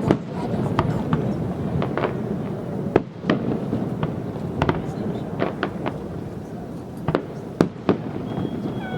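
Fireworks display going off: a dozen or so sharp bangs and crackles at irregular intervals over a steady background rumble.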